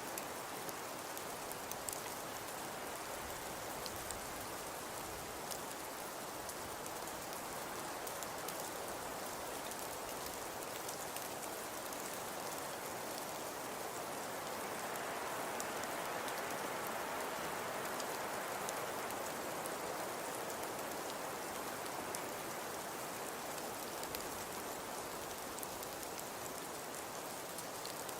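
Fireplace crackling: a steady soft hiss with scattered small pops, swelling a little in the middle.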